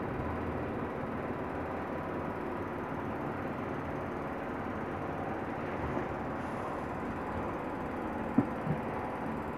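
Steady rumble of a passenger train heard from an open carriage window, with a faint steady whine through it. Two short knocks come near the end.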